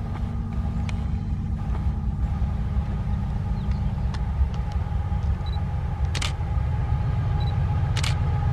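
Diesel locomotive engine running with a steady deep rumble and a faint engine whine, slowly growing louder as it nears.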